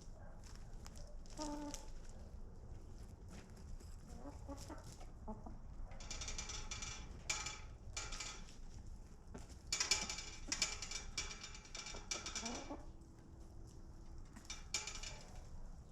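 Chickens clucking and calling, with a run of louder, drawn-out calls through the middle and a few more near the end.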